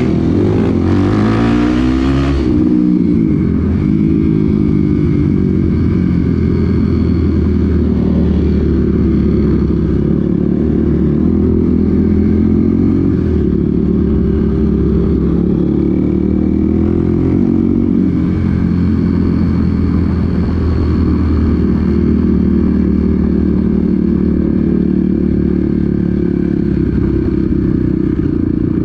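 Off-road vehicle engine running under way on a trail, its pitch rising and falling with the throttle. A broad rushing noise sits over it for the first couple of seconds.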